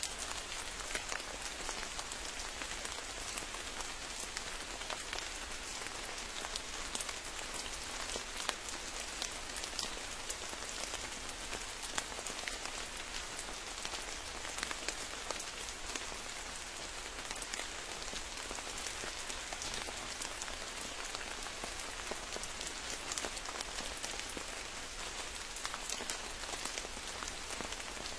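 Steady rain falling in a forest, a constant hiss with many individual drops ticking close by.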